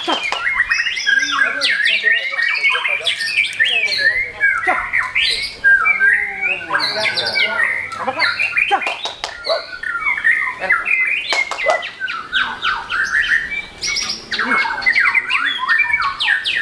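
White-rumped shama (murai batu) singing a loud, rapid, varied song of trills, whistles and sharp clicks without a pause.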